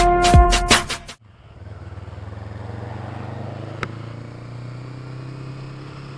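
Bell-like intro music ends about a second in, giving way to a motorcycle engine idling steadily, with one brief click near the middle.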